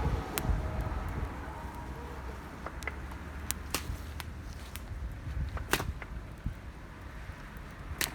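Wood fire crackling: a handful of sharp, irregular pops and snaps over a steady low rumble.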